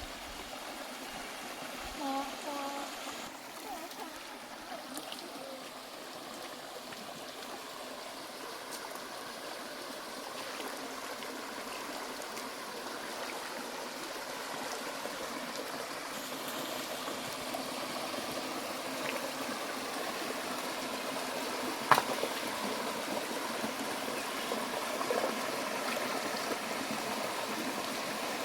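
Stream water running over rocks, a steady rushing and trickling that grows slightly louder over time. One sharp click or knock about three-quarters of the way through.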